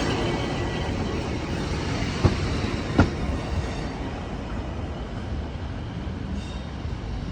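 Class 150 diesel multiple unit running on the line, steady rumble with two sharp wheel knocks over rail joints about two and three seconds in, the sound slowly fading as it moves away.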